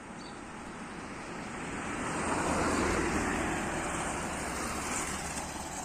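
A vehicle passing: a rushing noise with a low rumble that builds to a peak about halfway through, then eases off.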